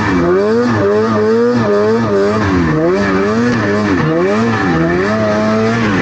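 Snowmobile engine revving under load, its pitch rising and falling again and again as the throttle is worked.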